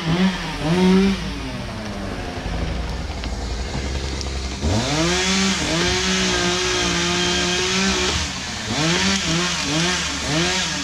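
Two-stroke chainsaw being revved, its pitch swooping up and down a couple of times a second. About halfway through it winds up from low into a steady higher-pitched run, then goes back to short revs and cuts off abruptly near the end.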